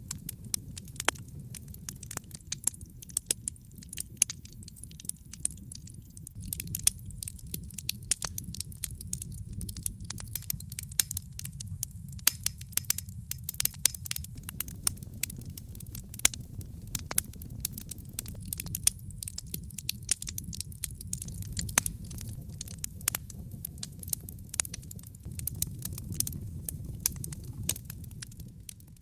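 Wood fire burning in a fireplace: many sharp, irregular pops and snaps over a steady low rush of the flames.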